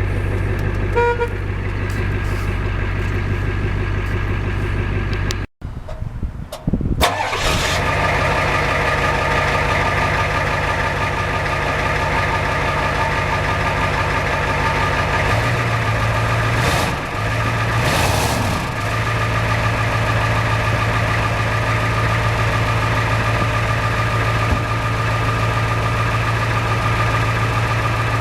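Ford F350 turbo diesel engine idling steadily just after starting. A short beep sounds about a second in, and the sound cuts out briefly about five and a half seconds in before the idle carries on, fuller than before.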